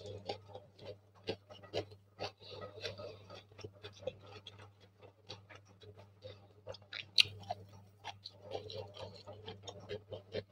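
Close-miked eating sounds: irregular small clicks and crackles of chewing and mouth sounds, with fingers picking fried rice off a ceramic plate, over a low steady hum.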